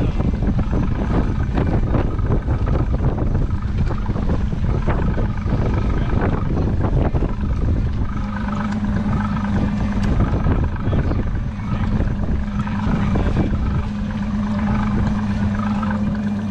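Boat motor running steadily under heavy wind buffeting on the microphone. A steady hum grows stronger about halfway through.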